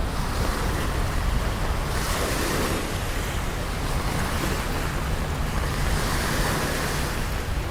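Rain falling on a city street with the noise of traffic: a steady hiss over a constant low rumble, swelling now and then.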